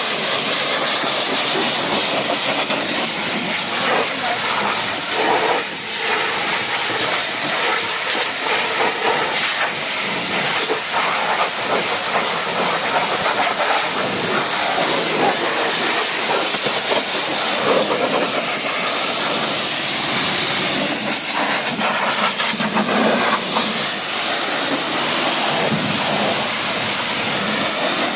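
High-pressure washer spraying water onto a vehicle, a steady loud hiss with a bright high-pitched edge.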